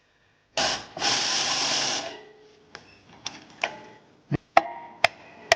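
A loud hissing burst, about a second and a half long, during work on a car's rear brakes. It is followed by a string of sharp metallic clicks and taps as tools and brake parts are handled.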